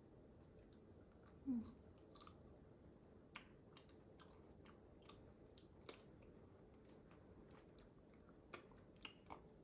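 Quiet close-up chewing and mouth sounds of someone eating whole large prawns by hand, with scattered soft clicks and smacks. About a second and a half in there is one brief, louder, low-pitched sound.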